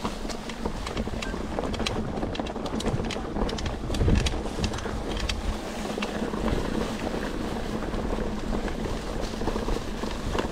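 Wind buffeting the microphone while a mountain bike rolls over a rough dirt trail, with scattered clicks and rattles from the bike and one heavier knock about four seconds in.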